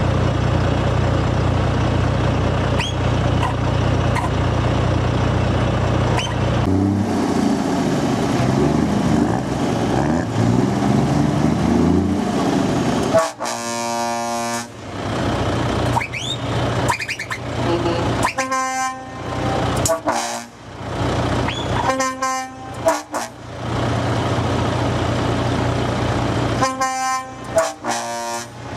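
Heavy lorries in a convoy rolling past with their diesel engines running, then from about halfway through a series of loud truck air-horn blasts, some short toots and some about a second long.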